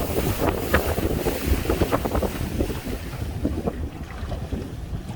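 Strong wind buffeting the microphone over the wash of waves and water slapping against a small open fishing boat's hull, easing a little after about three seconds.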